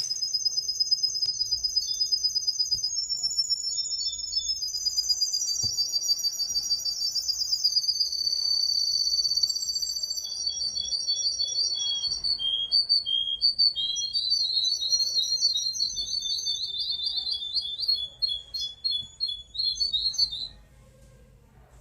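Songbird singing a long, fast, high-pitched trill that shifts in pitch every few seconds and breaks off about twenty seconds in.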